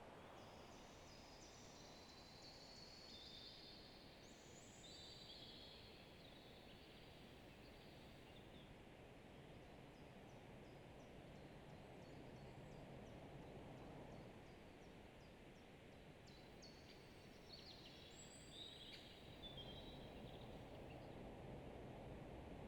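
Faint, steady rushing of a distant waterfall. A songbird sings short, high chirping phrases near the start and again near the end.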